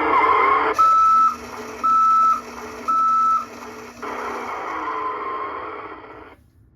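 Toy fire truck's electronic sound chip playing a truck backing-up effect: three steady reversing beeps about a second apart over a rushing engine-like noise that cuts off about six seconds in.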